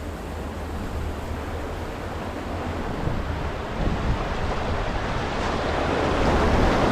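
River rapids rushing, a steady wash of whitewater that grows gradually louder.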